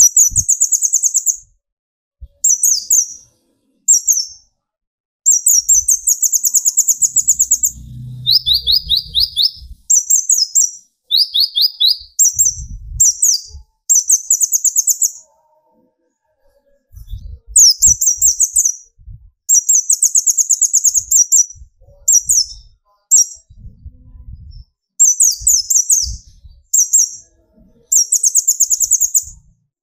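Kolibri ninja (konin) sunbird singing its rapid 'tembakan' song: repeated short, very fast, high-pitched trilled bursts, with two lower-pitched trills about 8 and 11 seconds in and a brief pause after about 15 seconds.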